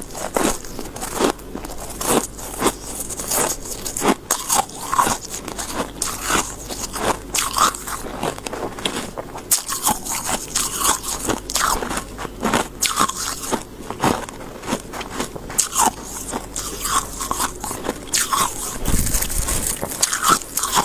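Person biting and chewing soft freezer frost close to the microphone: a run of irregular crisp crunches, several a second.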